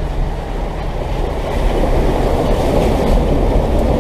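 Diesel 4x4 truck driving through a shallow pond, heard from inside the cab: a steady engine rumble with water sloshing and splashing against the underside, a little louder from about a second and a half in.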